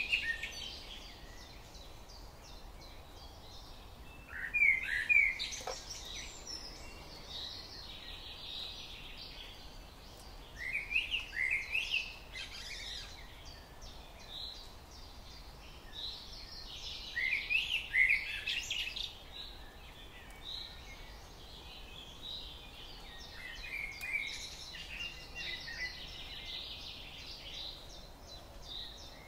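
Birds singing: a songbird repeats a short phrase of quick rising chirps every six or seven seconds, over a faint steady twitter of other birds.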